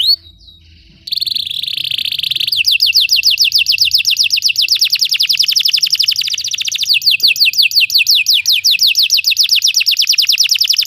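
Belgian canary singing. After a brief pause it gives a fast, buzzy trill about a second in. From about two and a half seconds it rolls into a long run of quick, repeated falling notes, about ten a second.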